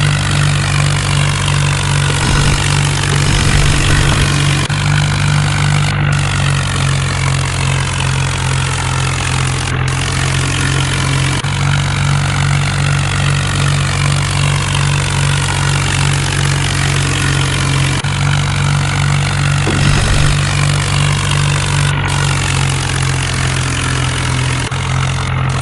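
Tractor engine running steadily: a constant low engine note with a loud, even rush of noise above it.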